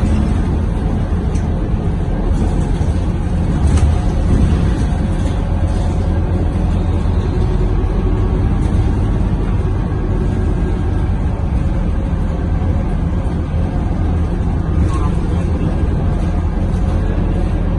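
Cabin sound of a Scania K230UB single-deck bus under way: the diesel engine and road noise as a steady low rumble, with a few light rattles.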